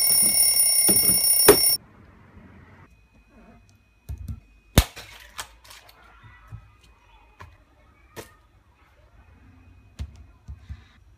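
A bell rings loudly and cuts off suddenly just under two seconds in. Scattered knocks, clicks and light clatter follow, with a faint thin steady tone in the middle.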